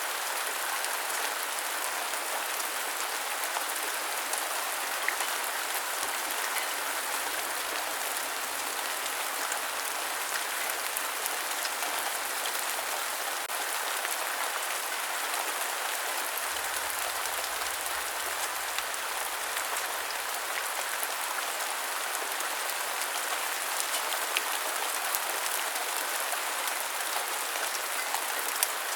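Steady rain: an even, unbroken hiss of rainfall, with a few sharper single drop ticks standing out now and then.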